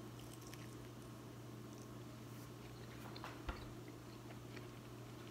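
Faint mouth sounds of a person biting into and chewing a fried potsticker dumpling: a few soft scattered clicks and one short thump about three and a half seconds in, over a steady low hum.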